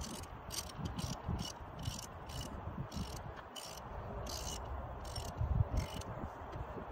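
Ratchet wrench clicking in short, uneven strokes, about two to three clicks a second, over a low background rumble.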